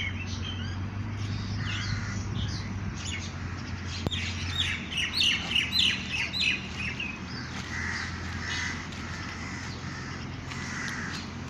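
Birds chirping and calling, with a cluster of louder chirps around the middle, over a steady low hum.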